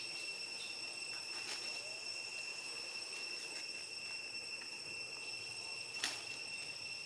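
Steady, high-pitched insect drone, like crickets or cicadas, holding one pitch throughout, with a few faint clicks early and one sharp click about six seconds in.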